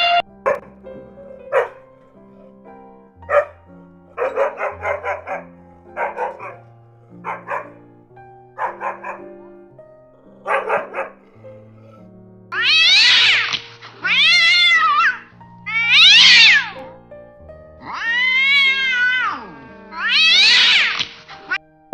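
A cat meowing over background music. The first half holds short, quick calls; from about halfway there are five long meows of about a second each, rising and then falling in pitch.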